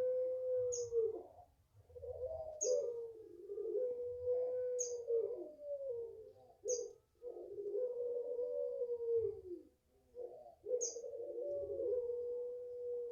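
A puter pelung dove, a domestic turtle dove bred for its long coo, giving about four long coos in a row, each held steady for about two seconds before falling away at the end. A short high chirp sounds alongside several of the coos.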